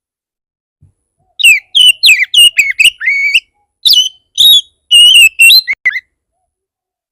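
Oriental magpie-robin (kacer) singing a fast run of loud, varied whistled notes with sharp upward and downward sweeps for about four and a half seconds, starting about a second and a half in. This is its aggressive, worked-up song, the kind played to provoke other magpie-robins into answering.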